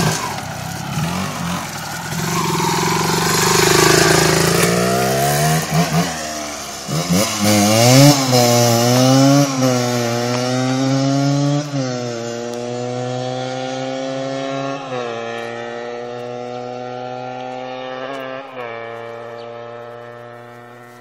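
1987 Kawasaki KMX 125's two-stroke single-cylinder engine through its original exhaust, revved up and down several times. It then runs at a steady, slowly falling pitch with a couple of small blips, and fades out near the end.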